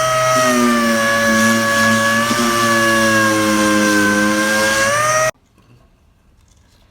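Angle grinder with a flap sanding disc running steadily, its whine sagging and recovering slightly in pitch as it works the plastic. It cuts off suddenly about five seconds in.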